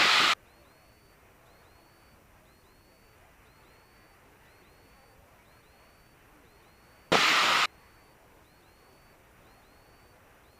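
Aircraft radio squelch: two short bursts of static heard through the cockpit intercom, one right at the start and one about seven seconds in. Between them there is only faint hiss.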